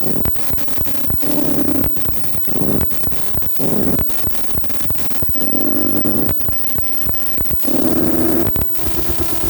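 Experimental electronic music played on hardware synthesizers: a dense wash of noise and crackling glitches, with a low pitched chord that cuts in and out several times.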